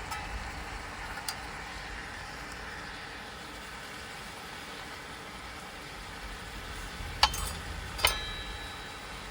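A steady hiss with two sharp clinks near the end, the second ringing briefly like metal or glass.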